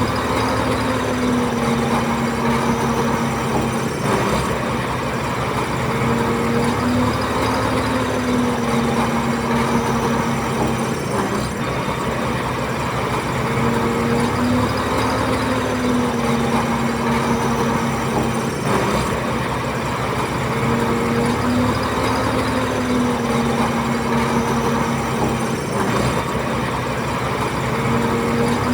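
A bulldozer's heavy diesel engine running steadily. Its pitch sags and recovers in a cycle that repeats about every seven seconds as the load changes.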